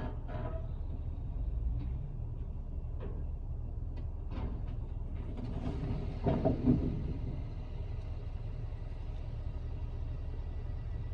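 Heavy truck's diesel engine rumbling steadily at low pitch, with a few sharp knocks and a louder clatter about six seconds in.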